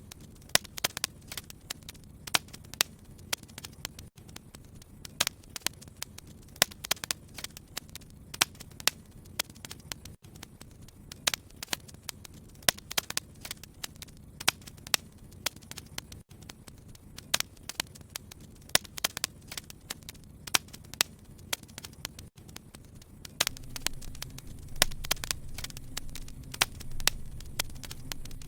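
Wood fire crackling, with frequent irregular sharp pops and snaps over a low, steady rumble. The rumble grows louder about 23 seconds in.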